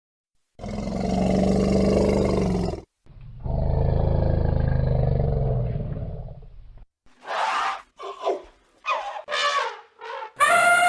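Two long, deep roars from a large animal, then a run of short higher calls and, near the end, a long call that falls in pitch, from a different animal.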